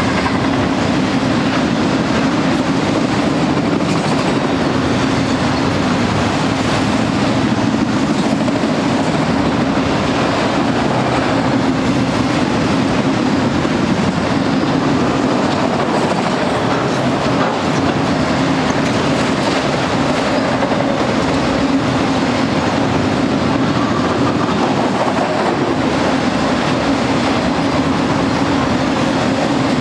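A train of freight auto-rack cars rolling steadily past at close range: a continuous rumble and clatter of steel wheels on the rails.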